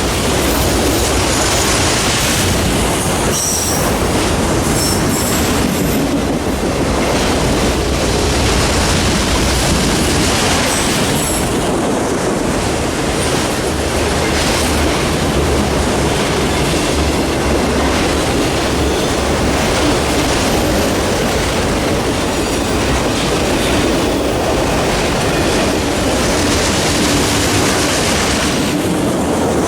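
Freight train cars rolling past: a steady rumble of steel wheels on the rails with clickety-clack over rail joints and a few brief high wheel squeals.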